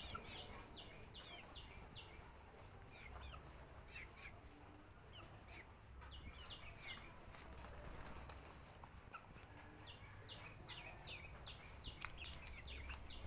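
Faint bird chirps: short, falling calls in quick runs of several, coming and going, over a low rumble.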